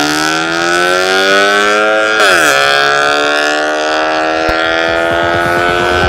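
Honda Civic 1.8 inline-four through an MS-R cat-back exhaust, accelerating with the revs climbing. About two seconds in the pitch drops quickly, as at a gear change, then climbs again steadily.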